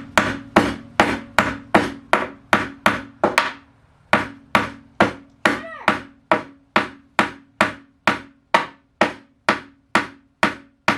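A hammer driving a nail into wood with steady, even blows, about two and a half strikes a second, with one short pause about four seconds in.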